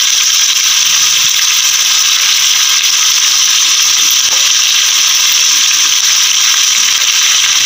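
Chicken, onions and tomatoes frying in oil in a pot for a chicken curry (salan): a loud, steady sizzling hiss.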